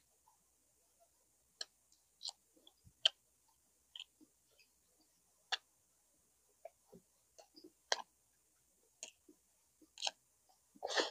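A person chewing and eating a meal of braised pork leg and rice: faint, scattered wet mouth clicks and smacks at irregular intervals, with a quick cluster of them near the end.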